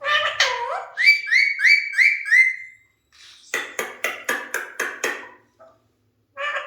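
Alexandrine parrot calling between its talking. It gives a short gliding note, then a run of about six quick rising whistles. After a pause comes a rapid series of about eight harsh pulsed calls, roughly four or five a second.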